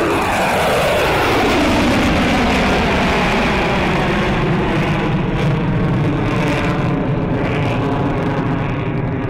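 Fighter jet flying past, its engine whine falling in pitch over the first few seconds as it passes, then settling into steady jet noise.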